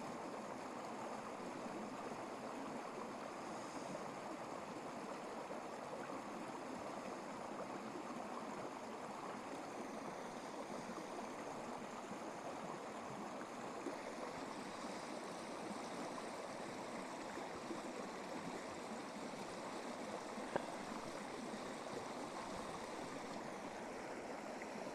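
Steady rushing of flowing water, with a single sharp click about twenty seconds in.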